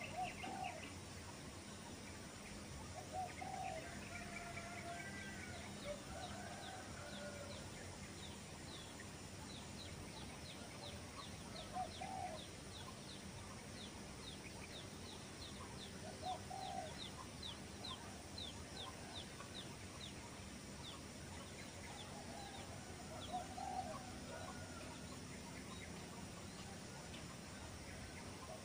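Birds calling in open country. Short low calls come every few seconds, and from about six seconds in to about twenty there is a long run of short high notes, about two or three a second, over a steady background hiss.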